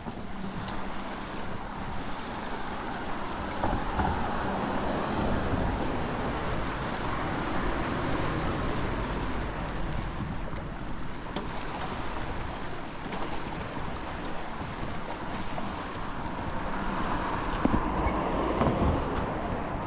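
Mediterranean waves washing onto the shore with wind rushing on the microphone, swelling about four seconds in and again near the end. A faint low hum runs under it for the first few seconds.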